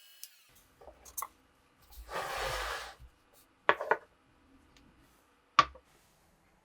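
Small metal parts of an old revolver being handled at the bench: a few light ticks, a soft rub or hiss lasting about a second, then a quick double click and, a couple of seconds later, one sharp click.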